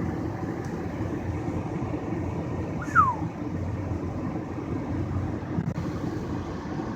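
Steady low road and engine rumble inside a moving car's cabin at freeway speed. About three seconds in, a brief high sound slides quickly down in pitch.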